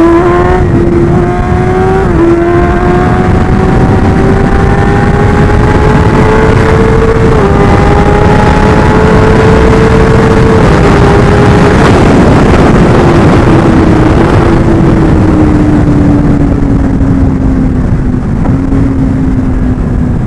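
Kawasaki Ninja ZX-10R's inline-four engine running at high speed under hard acceleration, over heavy wind noise. Its pitch climbs slowly with three brief dips as gears are shifted, then falls steadily through the second half as the throttle eases off.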